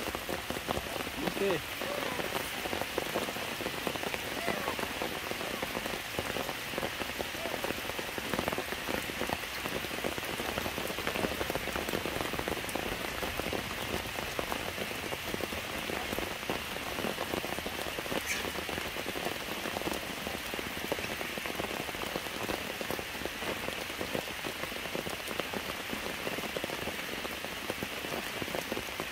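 Steady rain falling on wet stones and leaves, an even hiss of many small drops.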